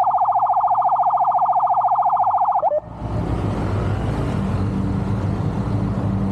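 Emergency vehicle siren in a very fast warble, cutting off suddenly about two and a half seconds in, followed by steady engine and road noise.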